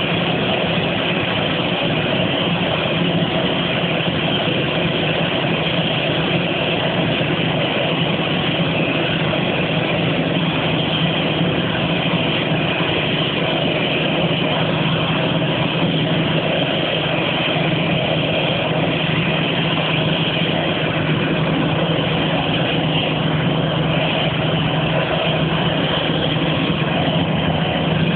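CFM56-5B6/P turbofan engine of an Airbus A319 running steadily, a loud even roar with a constant whine that neither rises nor falls.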